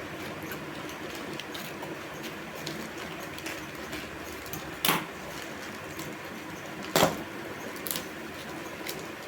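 Study books and their packaging being handled during an unboxing: scattered small clicks and rustles, with two louder knocks about five and seven seconds in, over a steady low hum.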